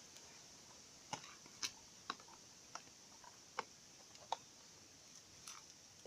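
Light, irregular clicks and taps of kitchen utensils against dishes, about eight in six seconds.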